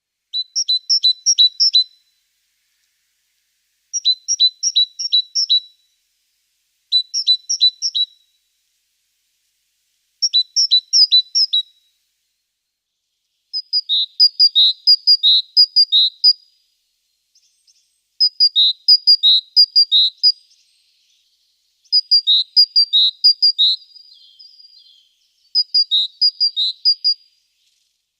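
A small songbird singing: repeated short phrases of quick, high notes that alternate between two pitches, with pauses of a second or two between phrases.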